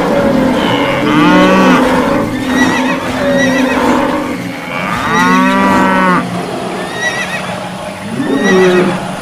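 Cartoon stampede sound effects: two long cattle moos, about a second in and about five seconds in, with short high animal calls in between, over a continuous noisy background.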